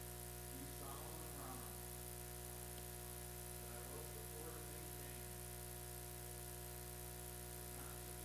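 Steady electrical hum and buzz on the recording, with many fixed tones that never change. Faint wavering sounds come over it about a second in, around four to five seconds in, and near the end.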